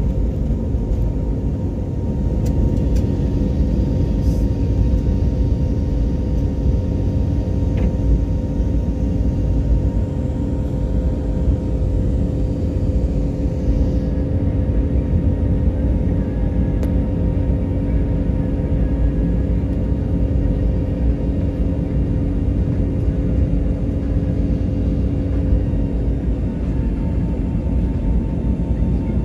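Airliner's jet engines during takeoff: a steady, loud low rumble with a few steady humming tones running through it.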